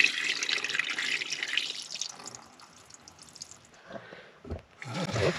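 Water running from the sink faucet as rice is rinsed in a pot, trailing off about two seconds in; near the end, a short splash of water sloshing.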